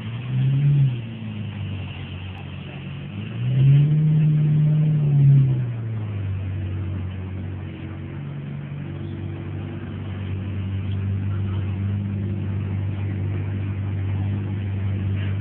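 Lamborghini Murciélago LP640's 6.5-litre V12 engine blipped briefly, then revved for about two seconds around four seconds in, then running steadily at low revs.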